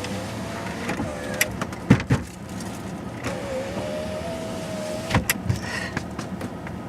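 Truck engine idling while it warms up in the cold, heard from inside the cab. A thin wavering whine runs over the low hum, with a few sharp knocks about two seconds in and again about five seconds in.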